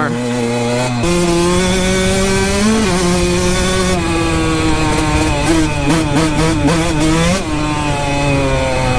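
Kawasaki KX125 two-stroke dirt bike engine running while being ridden. The revs step up about a second in, hold fairly steady with some wavering of the throttle, then drop back near the end.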